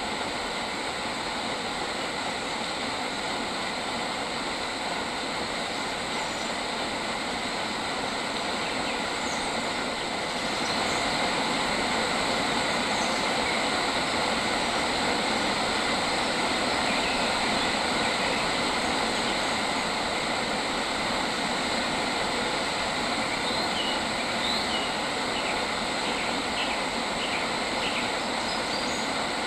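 Steady dense outdoor nature ambience, a loud even hiss that gets louder about ten seconds in, with a few faint bird chirps near the end.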